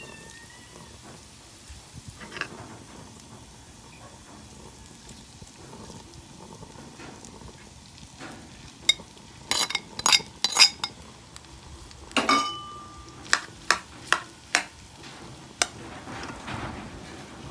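Garlic and breaded sardines sizzling softly in a metal wok. About halfway through, a metal spoon clinks sharply against the pan several times, one strike briefly ringing, as leftover rice goes in. Near the end comes the scraping of stirring.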